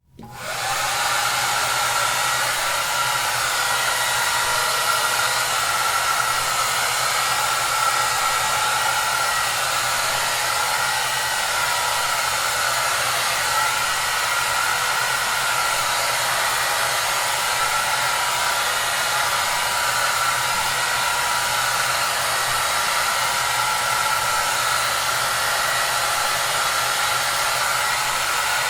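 Hair dryer running steadily: an even, airy hiss with a faint whine, coming in within the first second after a brief silence.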